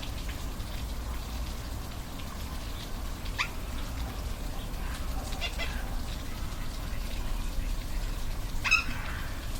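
Steady rush of a waterfall, with a few short animal calls over it, about three and a half, five and a half, and nine seconds in.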